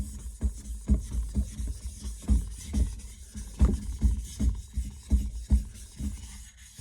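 Atoma 400 diamond flattening plate rubbed back and forth over a soaking whetstone to flatten it, a gritty scraping at about two strokes a second, easing off shortly before the end.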